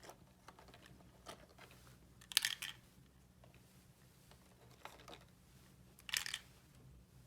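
Small toy pieces being handled: light clicks and taps, with two louder, short crinkly rustles about two and a half and six seconds in.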